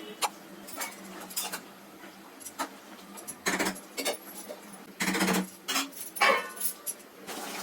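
Metal cooking utensil clinking and scraping against a pot, a series of irregular knocks with a few longer scrapes.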